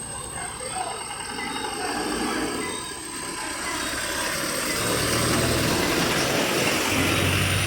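A road vehicle driving past, its engine and tyre noise swelling and loudest near the end.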